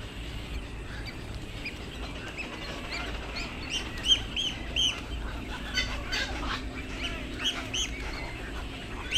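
Birds calling: a run of short, arched chirping notes through the middle and later part, over a steady low rumble.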